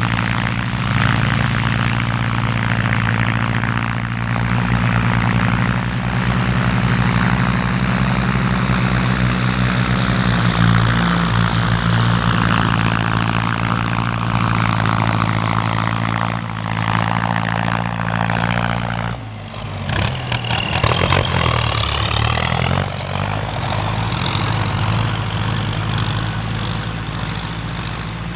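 Diesel tractor engine running steadily. About 19 s in it drops briefly and its pitch shifts and wavers for a few seconds, then it settles to a steady run again.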